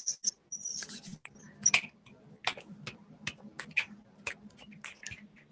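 Body-percussion rain: palms rubbing together for the wind fade out in the first half-second, then many people's finger snaps and taps come in as scattered, irregular clicks, several a second, imitating individual raindrops starting to fall.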